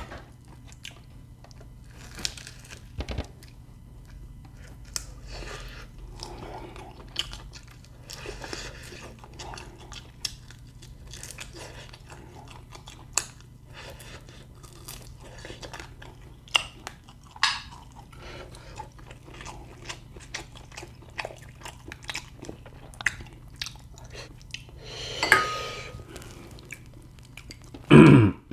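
A person chewing and crunching food close to the microphone, with many short crackly bites scattered throughout over a low steady hum. A couple of louder noises come near the end.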